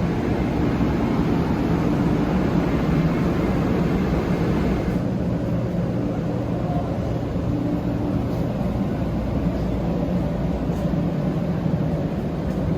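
Shinkansen train running, heard from inside the passenger car as a steady low drone and rushing hiss; the hiss eases a little about five seconds in.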